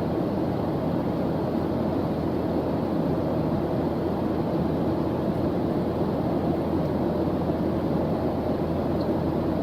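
Steady background noise track: an even, deep, rumbling hiss that never changes, with most of its weight low and little treble.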